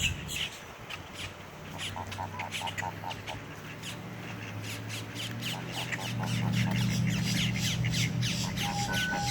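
Birds chirping and squawking: many quick, high, downward-sliding chirps, with runs of short rapid squawking notes in the middle. Beneath them runs a low steady hum that grows louder after about six seconds.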